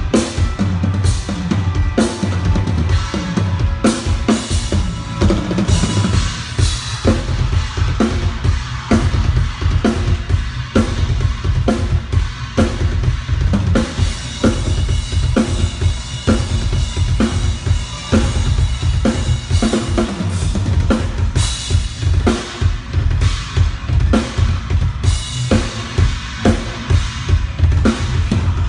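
Drum kit played for a sound check: kick drum and snare hits in a steady, busy beat.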